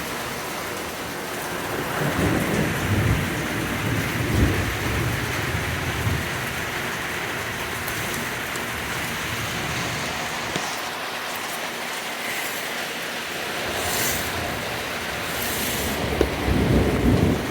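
Heavy rain falling steadily, with low rumbles of thunder, one of them near the end.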